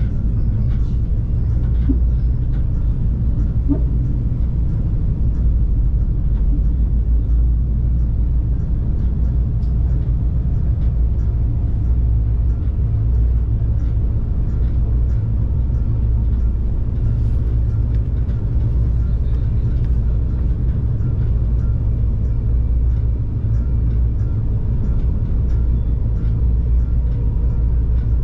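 Stadler GTW diesel multiple unit running at speed between stations, heard on board as a steady low rumble of its diesel engine and wheels on the rails.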